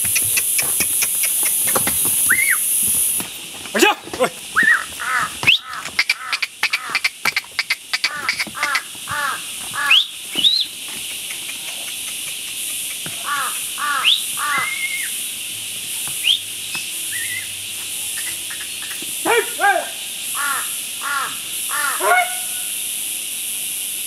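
A bird gives harsh caws in runs of three to five quick calls, again and again, over a steady high hiss. A patter of sharp clicks sounds between about four and eight seconds in, and a few short rising whistles come now and then.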